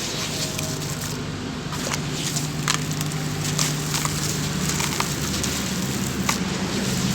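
Sand-cement chunks crumbling and fizzing in water: a dense, continuous crackle with scattered sharp pops.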